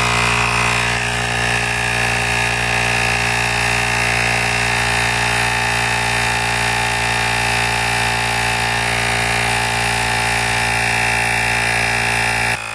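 Portable cordless tire inflator (Asmax T10) running steadily at an even pitch, its small compressor pumping a car tire up from 32 psi toward 35 psi.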